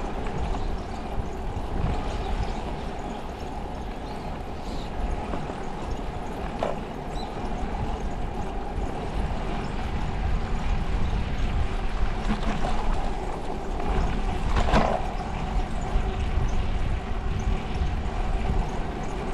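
Wind rumbling over the microphone and steady road noise from a moving bicycle, with one short knock about three-quarters of the way through.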